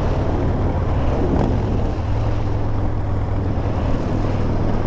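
Harley-Davidson motorcycle's V-twin engine running steadily on the move, with wind noise on the microphone.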